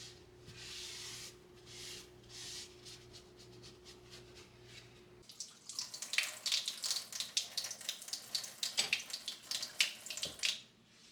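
A steady low hum stops about five seconds in, then water runs and splashes in a sink for about five seconds.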